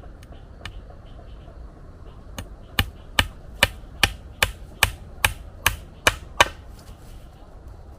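A hand tool striking about ten times in an even rhythm, roughly two and a half sharp strikes a second, starting a couple of seconds in and stopping near the end.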